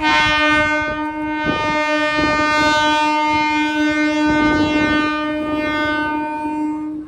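Electric local train's horn held on one steady note for about seven seconds, then cutting off suddenly, over the rumble and clatter of the train running.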